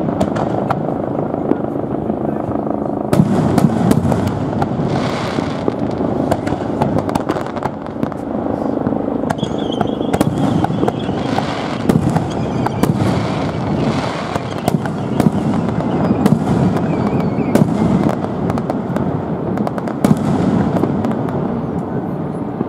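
Aerial firework shells bursting overhead in quick, irregular succession, giving many sharp bangs and cracks through the whole stretch.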